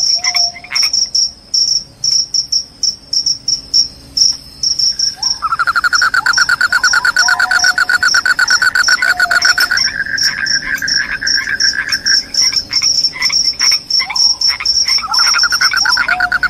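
Crickets chirping in quick, even high-pitched pulses. About five seconds in, a lower, continuous trill joins and runs for several seconds, then returns near the end, with short falling calls in between.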